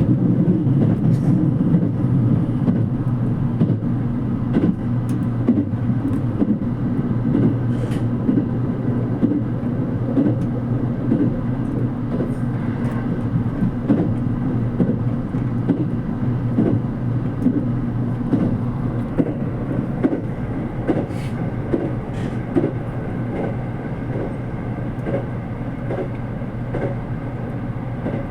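JR Kyushu 787 series electric limited express running at speed, heard from inside the carriage: a steady low rumble with irregular sharp clicks of the wheels over the rail, a little quieter in the last few seconds.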